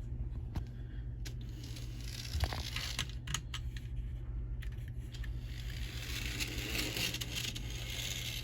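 Bachmann N scale GE U36B model diesel locomotive running on track: a faint motor whir with scattered clicks from the wheels, swelling twice as it passes close, over a steady low hum. The owner thinks it sounds like it needs its wheels cleaned.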